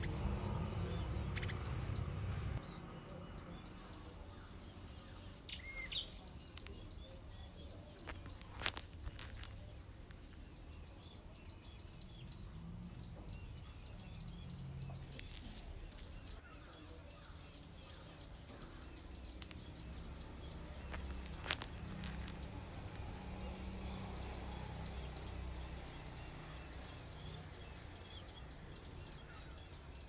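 Bar-winged prinias chirping: a rapid, near-continuous stream of short, high-pitched notes with a brief break about three quarters of the way through. A low rumble lies under the first couple of seconds, and a few sharp clicks are heard.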